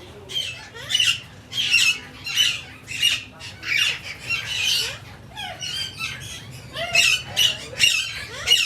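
Birds squawking: harsh, shrill calls about twice a second, dropping to softer calls for a second or two midway before the loud calls resume.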